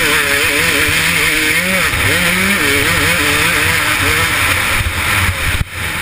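KTM 250SX two-stroke motocross engine racing at high revs, its pitch rising and falling over and over as the rider works the throttle and gears, with wind rushing over the onboard camera's microphone. The engine drops off briefly when the throttle is chopped near the end.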